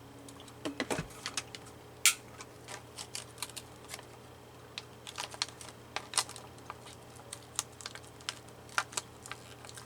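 Irregular small clicks and taps of hands handling paper cut-outs and small objects on a craft table, a few a second, with a dull knock about a second in and a louder sharp click about two seconds in.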